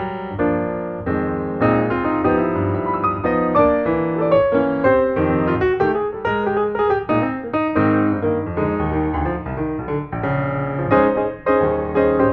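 Background piano music, many quick notes played in a continuous flowing line.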